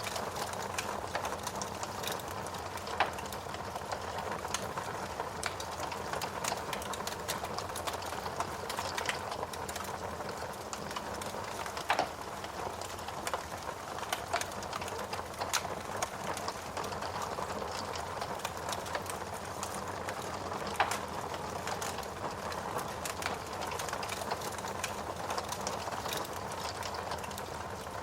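Fire crackling in a fireplace: a steady soft hiss with a dense run of small snaps and pops, and a few sharper pops scattered through.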